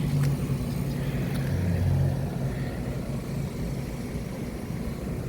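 Trane XR14 outdoor air-conditioner condensing unit running in cooling mode: a steady low hum from the compressor over the even rush of the condenser fan.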